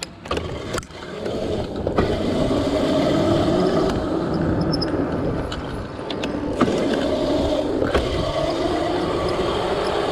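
Electric dirt bike being ridden over rough ground: a motor whine rising and falling in pitch, over wind and tyre noise, with a few sharp knocks from bumps.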